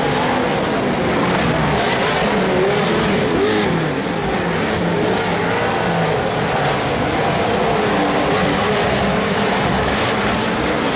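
Several off-road racing vehicles' engines running hard together, their pitches rising and falling as they rev through the course, over a steady wash of engine and tyre noise.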